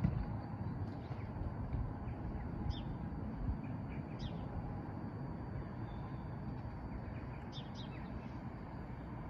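Small birds chirping now and then, a single call about three seconds in, another about a second later and a quick pair near the end, over a steady low outdoor rumble.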